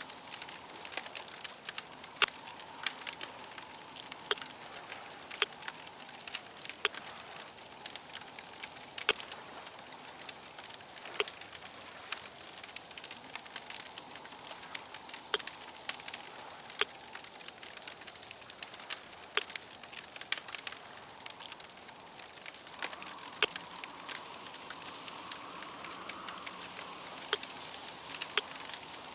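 Campfire crackling: irregular sharp pops and snaps over a steady soft hiss. A faint drone swells in the last several seconds.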